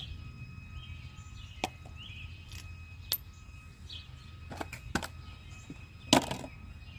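A handful of sharp, separate clicks and knocks, the loudest near the end, over a low steady hum.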